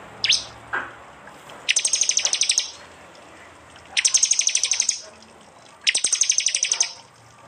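Prinia (prenjak) giving its 'tembakan' call: three rapid, loud trills of sharp high chips, about a second each, with short gaps between them. Two quick falling whistled notes come just before the first trill.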